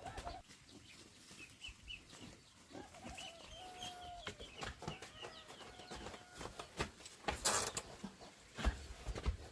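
Chickens clucking, with short high chirps and a few held calls, over scattered small knocks. A brief loud hiss comes about seven and a half seconds in.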